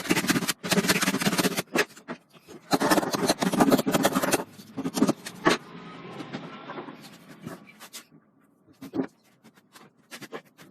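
Rough scraping strokes of a hand tool working wood, in two bursts of a second or two each, then a quieter stretch and scattered light clicks and knocks near the end.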